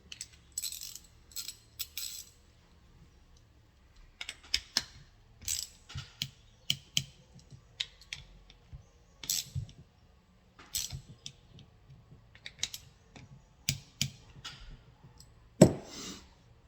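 Hand tools working on a Chevrolet starter motor: irregular ratchet clicks and metal clinks as its housing bolts are run in and tightened during reassembly, with a sharper metal knock about a second before the end.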